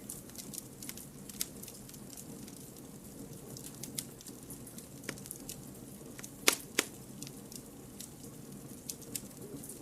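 Campfire of burning firewood crackling: a steady low hiss with scattered sharp pops and snaps, two loud pops close together about six and a half seconds in.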